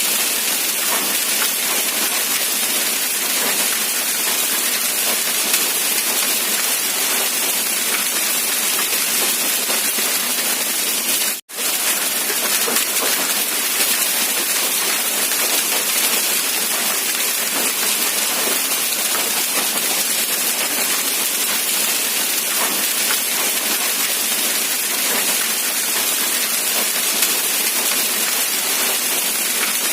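Steady, dense rain, an even hiss with little low rumble. About eleven seconds in the sound cuts out for a split second and comes straight back.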